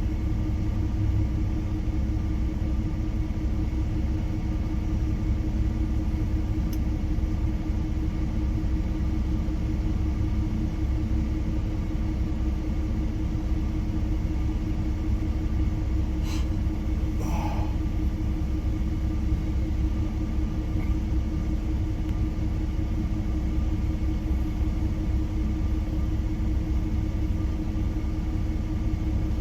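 Diesel engine idling: a steady low rumble with a constant hum, unchanging throughout, with one brief short sound a little past the middle.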